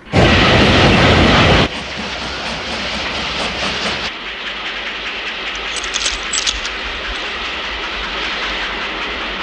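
Steam train running past very close on the rails, loudest in the first second and a half, then a steady rumble and clatter of wheels with a few sharp metallic clicks about six seconds in.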